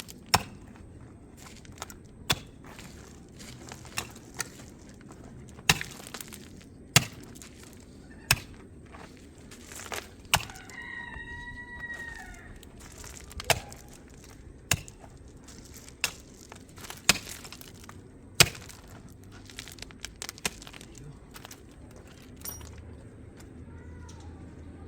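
A series of sharp, irregular clicks and knocks, roughly one every second or two, over a low steady background hum. About halfway through comes a short, high, wavering call or squeak lasting about a second.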